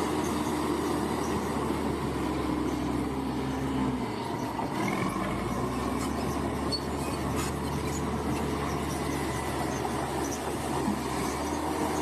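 Bulldozer's diesel engine running under steady load, its note shifting about four seconds in.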